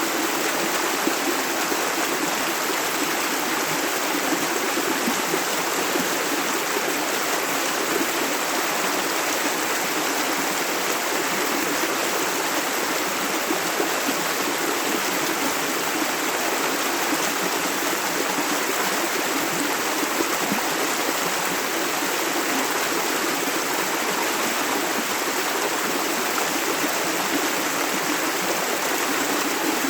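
Shallow river running steadily over stones, a continuous even rush of flowing water.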